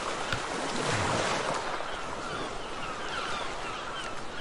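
Pen scratching on sketchbook paper in many short, quick strokes, over a steady hiss.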